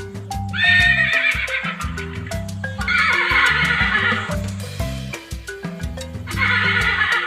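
Horse whinnying three times, each call about a second or more long, over background music with a light beat.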